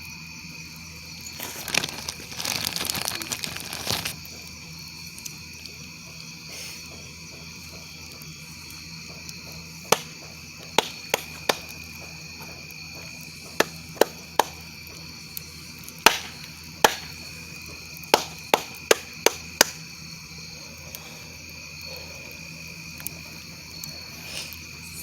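Crickets chirring steadily in a high, even chorus, with a wood campfire giving a dozen or so sharp single pops and cracks, most of them between about ten and twenty seconds in. A short stretch of rustling comes about two to four seconds in.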